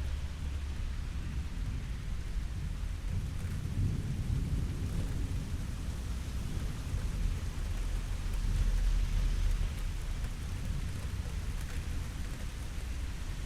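Steady rain falling, with low rolling rumbles of distant thunder that swell a few seconds in and again, loudest, about two-thirds of the way through.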